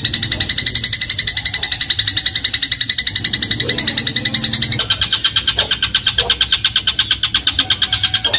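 Eurasian tree sparrow in a rapid, unbroken chattering trill of about ten high notes a second; about halfway through the notes change to a lower-pitched pattern and keep the same pace.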